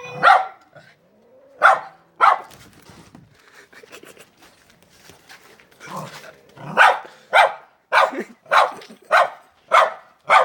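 Poodle barking at a cat: three sharp barks in the first couple of seconds, then after a lull a run of about seven barks, roughly two a second.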